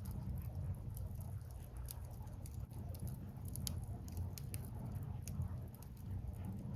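Wood fire burning, with irregular sharp crackles and pops of burning logs over a steady low rumble.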